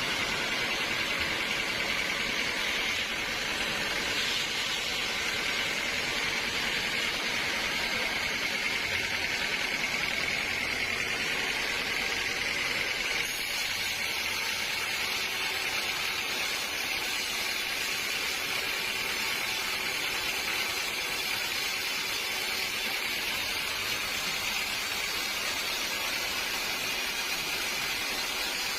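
Sawmill saw running steadily with an even high whine and hiss, its tone shifting slightly about halfway through.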